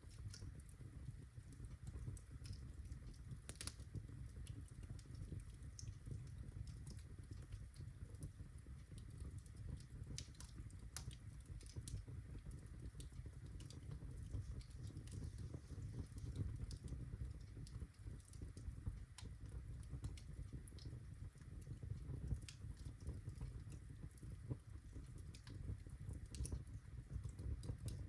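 Birchwood fire burning in a fireplace, crackling with irregular sharp pops over a steady low rumble of the flames.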